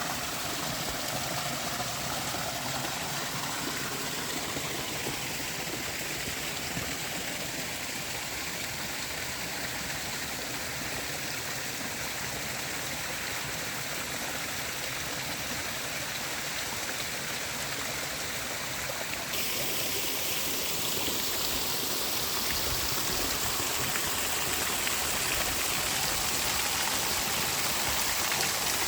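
Creek water running over small waterfalls and rock cascades, a steady rushing and splashing. About two-thirds of the way through it turns abruptly brighter and a little louder.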